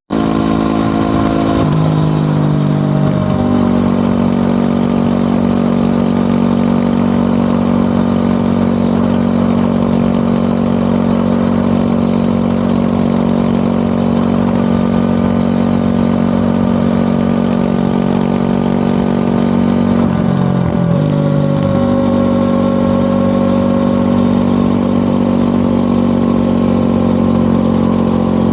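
Motorcycle engine and exhaust running steadily while riding. The engine note drops in pitch about a second and a half in, and about twenty seconds in it dips and climbs again as the revs fall and pick back up.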